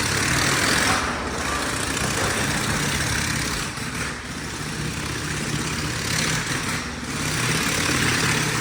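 Engines of vehicles riding round a wall of death drum: a continuous engine drone that swells and fades about every three seconds as the riders circle.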